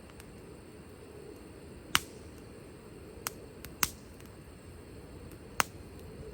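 Wood fire crackling, with four sharp pops spread across the few seconds over a low, steady background noise.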